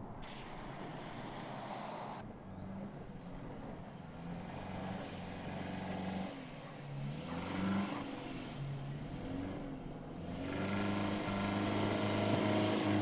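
Subaru Forester's flat-four engine revving up and down in steps while the SUV is driven off-road, with a rush of tyre noise over the first two seconds. Near the end it grows louder, pulling under load as the car climbs a rocky slope.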